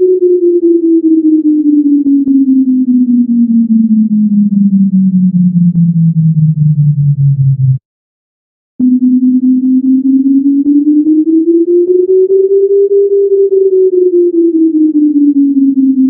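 Synthesized sine-like tones turning math functions into pitch: a single tone glides slowly down in pitch and cuts off about eight seconds in. After a second of silence a new tone starts, rises smoothly and falls back to where it began, the bell shape of a Gaussian curve.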